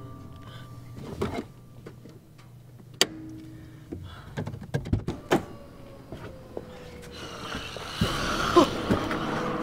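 Clicks and thunks of car keys and the car's interior and door, under a low sustained film score. About eight seconds in the sound turns into a louder scuffle, with one short sound falling in pitch.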